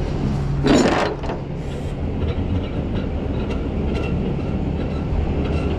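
Rollback tow truck running with a steady low rumble as its bed is rolled up, with a burst of noise about a second in and scattered metallic clanks.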